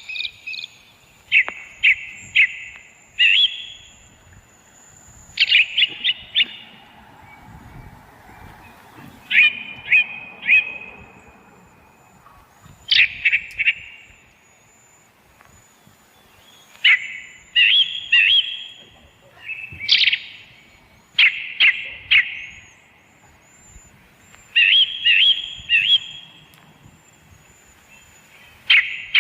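A bird calling in repeated short bursts of three or four sharp, high chirps, a burst every three to four seconds. A faint, steady, very high thin tone runs underneath.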